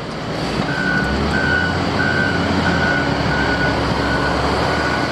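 Dump truck backing up: its reversing alarm beeps at one high pitch about three times every two seconds, over the low rumble of its engine.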